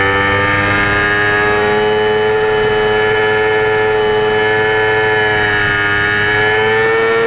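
Yamaha R25's 249 cc parallel-twin engine, breathing through an AHM Z1R aftermarket exhaust, is held at high revs in a race and gives a loud, steady drone. The pitch rises slightly near the end.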